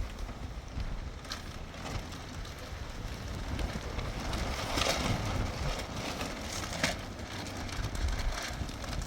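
Wind buffeting the microphone, a steady low rumble that rises and falls in gusts, with a few brief rustles and knocks, the loudest about five seconds in.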